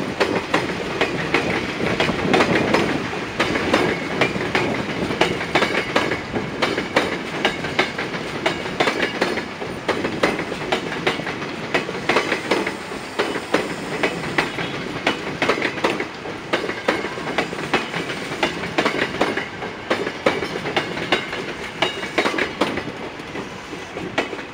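Electric commuter train rolling slowly past, its wheels clicking and clattering over the rails in a continuous clickety-clack. It eases off slightly in loudness toward the end.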